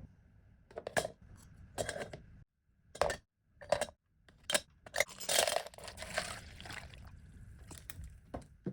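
Hand work on the parts of a vintage coffee grinder: a string of separate knocks and clinks, about one a second, then a longer scraping about five seconds in, with a few light clicks near the end.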